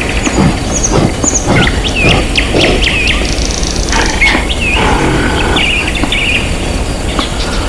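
Birds chirping: many short whistled calls that hook up and down in pitch, scattered irregularly, over a loud, steady low rumble.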